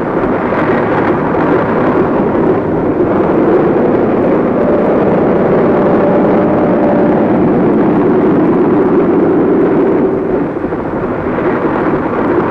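Loud, steady drone of aircraft engines, with a faint held tone partway through.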